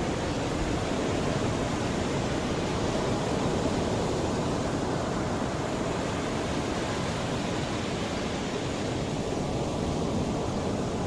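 Mediterranean sea waves washing onto the shore in a steady, continuous rush, swelling slightly and easing again.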